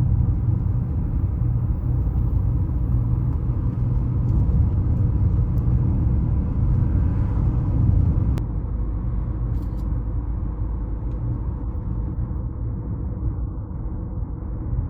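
Steady low rumble with no clear tones, easing slightly after about eight seconds.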